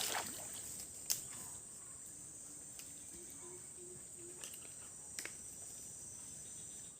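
Steady, high-pitched chorus of forest insects, with a sharp click about a second in and a smaller one near five seconds.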